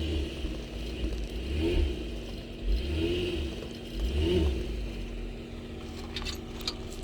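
A motor vehicle engine running with a low rumble, its pitch briefly rising and falling three times as it revs.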